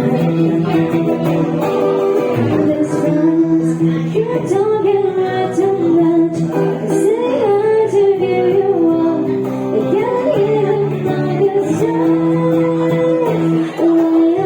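A song with a woman singing over plucked guitar, her long notes bending and held.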